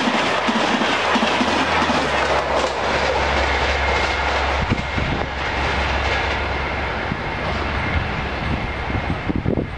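High-speed Indian Railways express train of LHB coaches passing close by, its wheels clattering rhythmically over the rail joints. After about two seconds the clatter gives way to a steadier low rumble that slowly fades as the train runs off into the distance.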